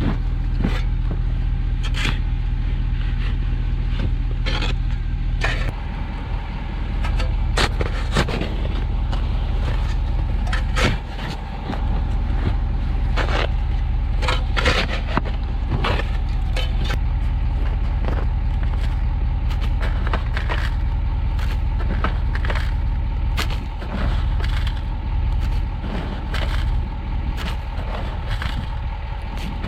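Shovel scraping and chopping into snow and mud in irregular strokes, over the steady low hum of a plow truck's engine idling. The truck has slid off the bank and is being dug out.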